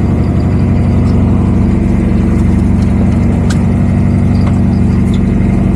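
A boat's engine running steadily, a loud, even low hum that holds unchanged.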